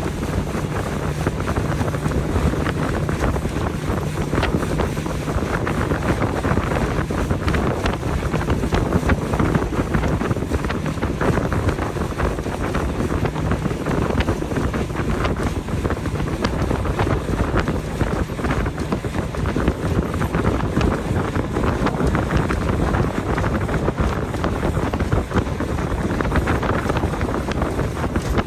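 Motorboat under way across a lake, a steady loud rush of engine and water, with heavy wind buffeting the microphone.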